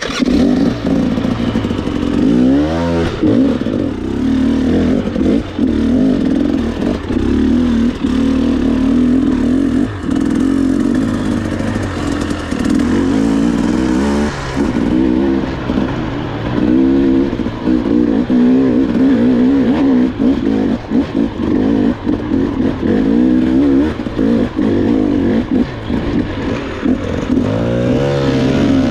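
Dirt bike engine running hard on a trail, the throttle opened and closed again and again so the engine note rises and falls.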